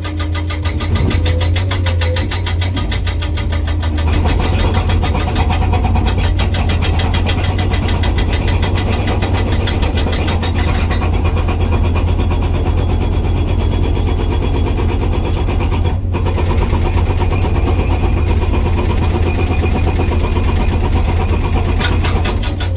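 Komatsu PC200 excavator's diesel engine running under load while its hydraulic breaker hammers hard rock in a rapid, even series of blows. The hammering grows louder about four seconds in and breaks off for a moment about two-thirds of the way through.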